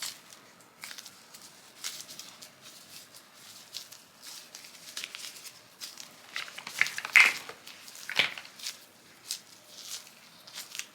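Hands working dental impression putty: scattered crinkling, small clicks and rustles, loudest about seven to eight seconds in.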